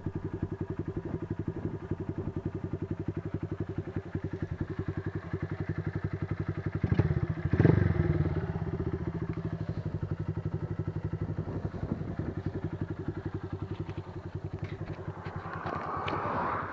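Single-cylinder engine of a 2007 Honda CG 150 motorcycle running steadily through a Roncar Aluminium aftermarket exhaust, set up with no air filter and a 118 main jet. The exhaust beat is even and regular, briefly louder about seven seconds in.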